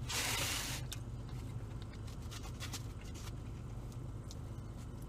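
Pizza being eaten: faint chewing with small scattered mouth clicks over a steady low hum, after a short breathy rush of noise at the start.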